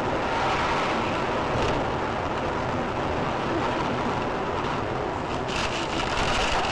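Steady road noise of a moving car, an even hiss with no distinct knocks or impacts, turning brighter and hissier about five and a half seconds in.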